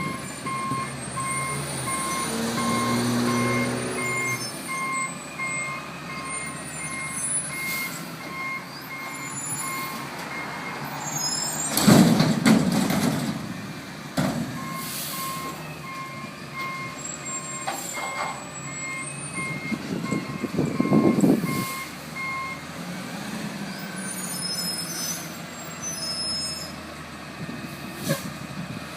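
A front-loader garbage truck's reversing alarm beeps evenly, about once a second, over the truck's engine, with a pause of a few seconds near the middle. There are two loud, noisy bursts, each about a second long: one just before the middle and one about two-thirds through.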